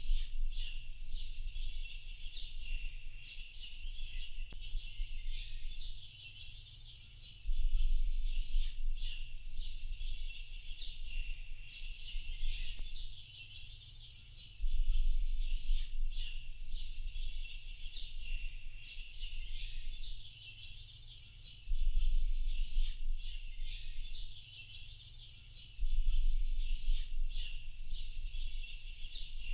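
A dense chorus of many birds chirping and twittering without pause. A low rumble comes in suddenly about every five to seven seconds, is the loudest thing each time, and then fades.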